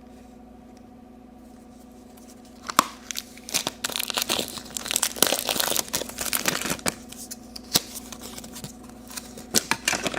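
Plastic toy packaging being crinkled and torn open, with sharp clicks and crackles, starting about three seconds in after a stretch of faint steady hum.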